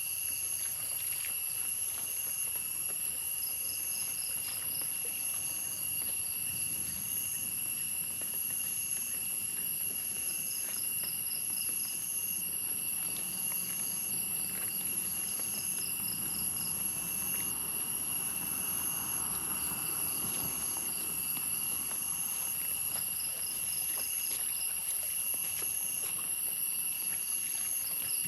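Chorus of insects: two steady high-pitched drones under repeating chirp trains and short regular pulses, with a few faint ticks.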